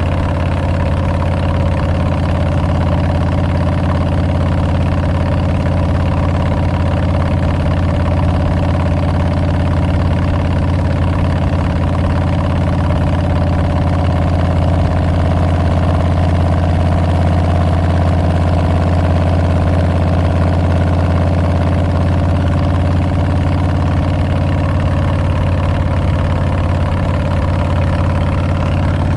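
Harley-Davidson Milwaukee-Eight 114 V-twin running steadily through Tabs Performance slip-on mufflers with Zombie baffles, a deep, even exhaust note that holds the same pitch without revving.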